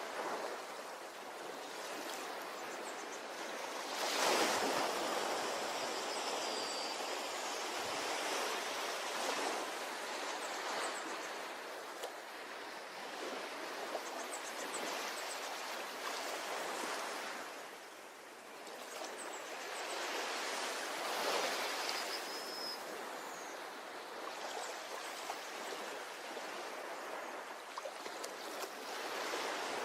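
Ocean waves washing onto a beach in a steady hiss, swelling as a wave breaks about 4 seconds in and again past the 20-second mark, and easing off near 18 seconds.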